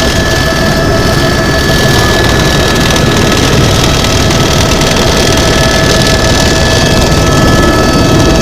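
Tour helicopter's turbine engine and rotors running, loud and steady: a dense rumble with a constant whine over it.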